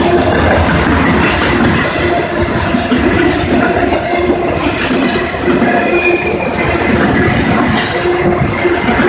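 A long CSX autorack freight train rolling past: a loud, steady rumble of steel wheels on rail, with short high-pitched wheel squeals now and then.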